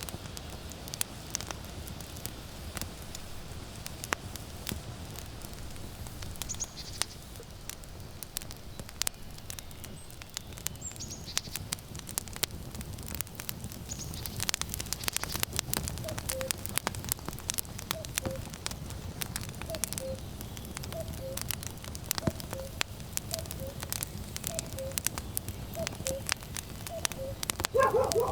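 Wood fire crackling and popping steadily over a low rumble of wind. From about halfway a common cuckoo calls its two-note falling "cuc-koo" over and over, about once a second. Just before the end a louder, short animal call rises above it, which may be the dog that was mixed in.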